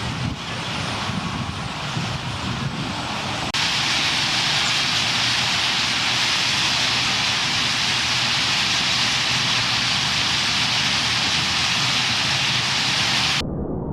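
Dense, steady wash of chatter from a huge flock of purple martins, over a low traffic rumble. The chatter cuts in sharply a few seconds in and cuts out near the end.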